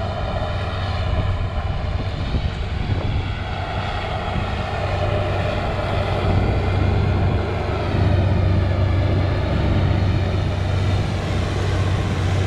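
Tractor engine running steadily at a constant speed, with a strong low hum.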